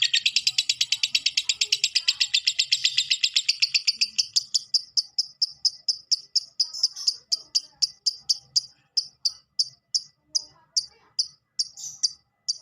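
Lovebird giving a long 'ngekek' trill: a rapid, unbroken run of sharp high chirps, about ten a second at first, slowing steadily to about three a second near the end.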